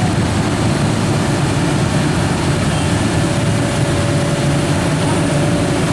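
Heavy truck engine running steadily at a constant low rumble.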